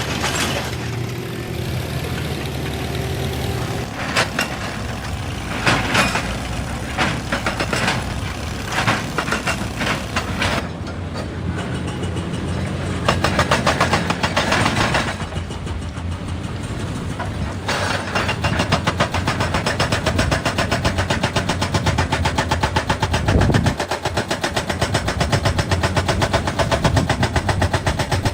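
Excavator diesel engine running, with a hydraulic rock breaker hammering rapidly, briefly about halfway through and then steadily through the last third.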